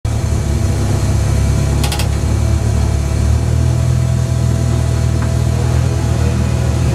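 Audi TT racing car's engine idling steadily at a low, even pitch, with a brief cluster of clicks about two seconds in.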